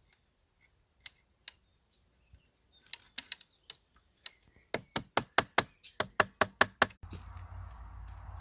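A string of sharp knocks on wood, a few scattered at first, then a quick even run of about five a second that gets louder, as when a wooden joint is knocked tight. Near the end they stop abruptly and a steady rushing noise takes over.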